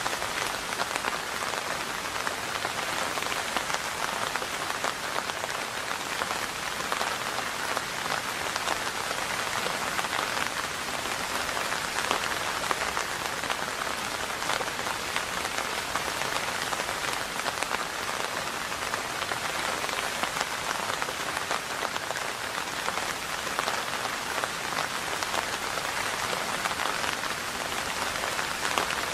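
Steady rain falling, an even hiss filled with countless small drop taps, unchanging throughout.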